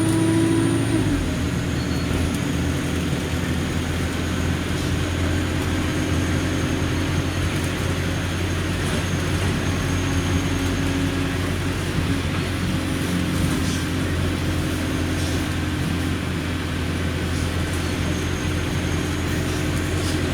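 Alexander Dennis Enviro200 bus engine running steadily under way, a low drone whose higher note drops away about a second in and then holds even.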